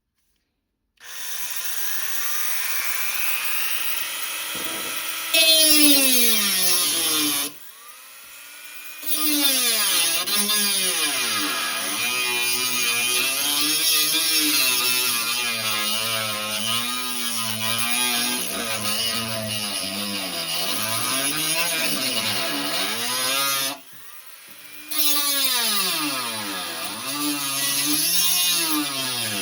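Rotary tool grinding through the sheet metal of a toolbox to finish cutting out a round hole. Its whine keeps dipping and rising in pitch as the bit loads up and frees. It starts about a second in and eases off briefly twice.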